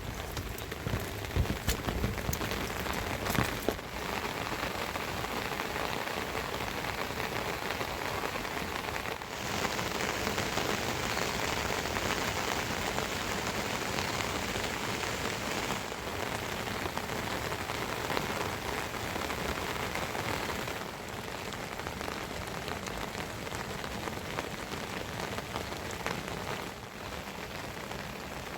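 Steady rain falling on surfaces, with a few sharp drip taps in the first few seconds; the rain's loudness steps up about nine seconds in and drops back about twenty seconds in.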